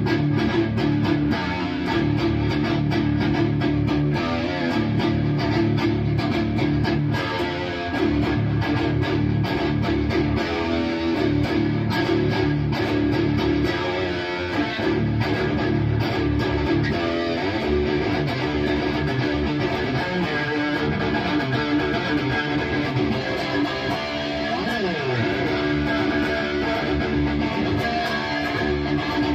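Distorted electric guitar played through a Bogner Uberschall preamp module: continuous high-gain riffing with many quick picked notes and a few sliding pitch bends near the end.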